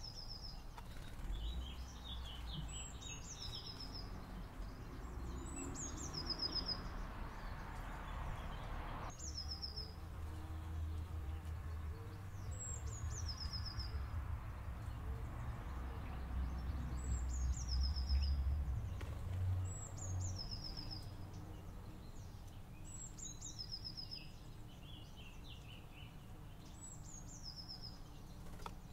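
A songbird sings the same short song over and over, about every three seconds. Each song is a quick falling phrase ending in a high trill. Under it runs a low rumble that swells about two-thirds of the way through.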